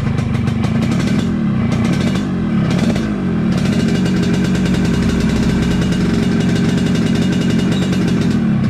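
Yamaha RX-King's single-cylinder two-stroke engine running at idle on the bench during carburettor setting. Its speed sags about a second in, picks back up around three seconds, then holds steady.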